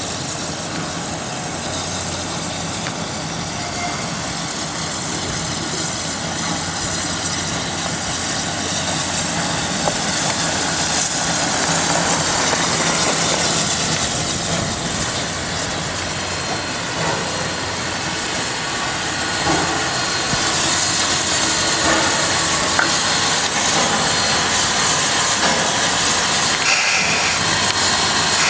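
Lehigh Valley Coal Company 126, a 0-6-0 tank-engine steam locomotive, hissing steam steadily with no clear exhaust beat, getting louder gradually and again about two-thirds of the way through.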